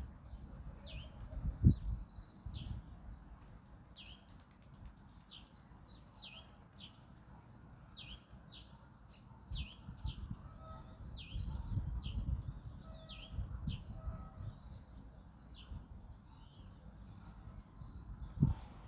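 Birds chirping, with many short calls that each slide downward, repeating once or twice a second, over low rumbling gusts of wind on the microphone that swell up about two seconds in, in the middle and near the end.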